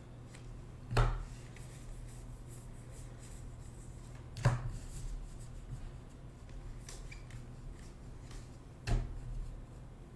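Trading cards and packs being handled on a table: rubbing and small clicks, with three sharp taps about a second in, in the middle and near the end, over a steady low hum.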